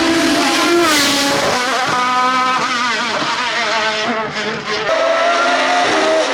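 Race car engine at high revs on a hillclimb run. The pitch steps down at a gear change just under a second in, the engine backs off briefly about four seconds in, then pulls up through the revs again.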